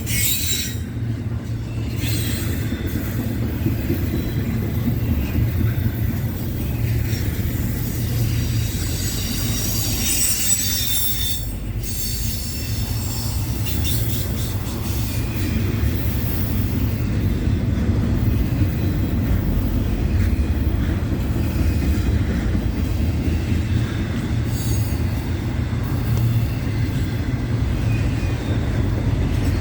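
Norfolk Southern freight train rolling past: a steady low rumble of wheels on rail, with high-pitched wheel squeal at times, most of all in the first half.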